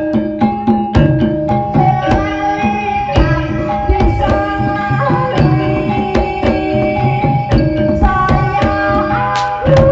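Live ebeg (jaran kepang) gamelan music: rapid hand-drum strokes over a repeating melody of held, ringing pitched notes from tuned percussion.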